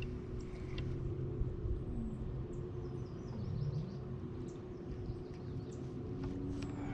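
Boat motor humming steadily over a low rumble, its pitch wavering and dipping now and then, with faint bird chirps.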